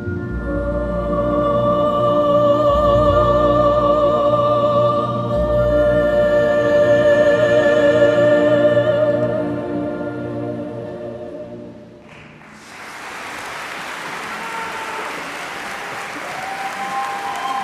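A young female classical singer holds a long final note with wide vibrato over orchestral accompaniment, fading out about ten to twelve seconds in. The audience then breaks into steady applause.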